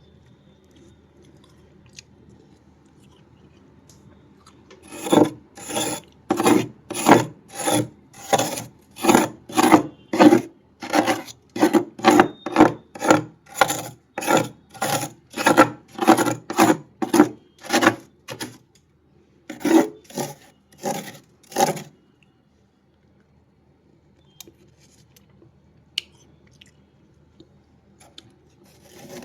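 Built-up freezer frost being scraped in rhythmic strokes, about two a second, with a brief pause and three last strokes before it stops.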